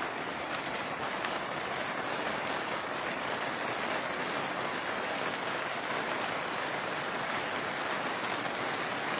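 Pouring tropical rain falling steadily: a dense, even hiss with sharp individual drop hits scattered through it.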